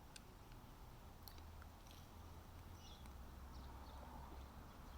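Near silence: faint outdoor background with a low hum and a few faint, brief ticks.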